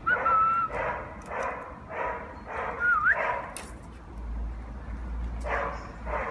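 Pet birds giving a series of short, harsh bark-like calls, mimicking a dog's barking, with a held whistle right at the start and a rising whistle about three seconds in. The calls stop for a moment, then two more come near the end.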